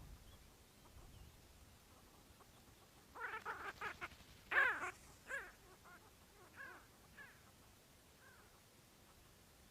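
A bird calling: a quick run of calls starts about three seconds in, the loudest comes soon after, and a few fainter calls follow at intervals before it falls quiet.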